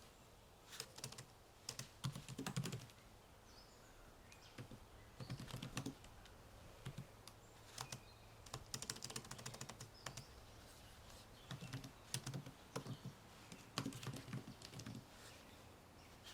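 Typing on a computer keyboard: quick runs of key clicks with short pauses between them, over faint birdsong.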